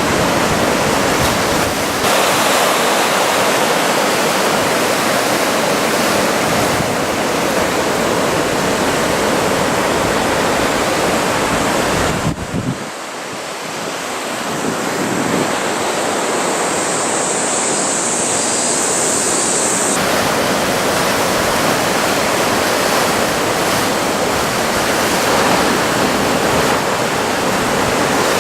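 Ocean surf from a typhoon swell breaking and washing in a continuous loud rush, with wind buffeting the microphone. The sound dips briefly about halfway through.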